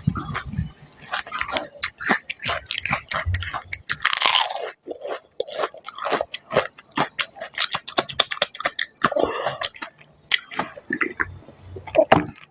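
Close-miked chewing and crunching of crisp panipuri (golgappa) shells, with many irregular crackles and wet mouth clicks, and two longer hissing sounds about four and nine seconds in.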